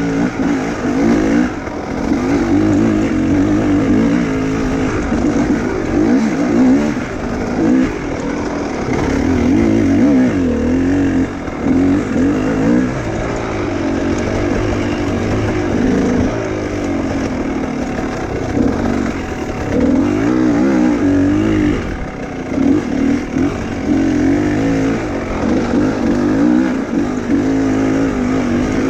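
Enduro motorcycle engine revving up and down continuously, its pitch rising and falling every second or two as the throttle is worked while riding.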